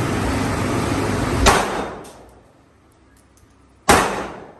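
Two gunshots about two and a half seconds apart, each a sharp crack with a short ringing tail. A steady rushing background noise runs under the first shot and drops away after it.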